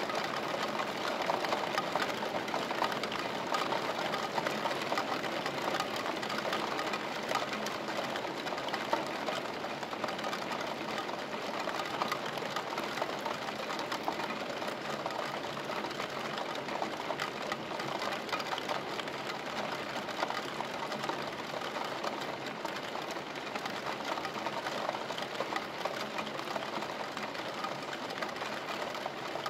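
Steady rain heard through a window: a dense, even patter of drops that does not let up.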